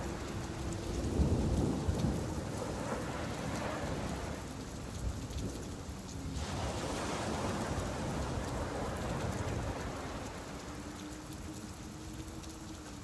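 Steady hiss of rain falling on a beach, with a low rumble swelling up about a second in and fading over the next few seconds.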